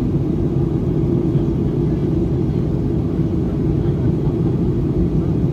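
Steady low rumble inside the cabin of a Boeing 737-800 on its descent approach: its CFM56-7B engines and the airflow over the fuselage, heard from a window seat.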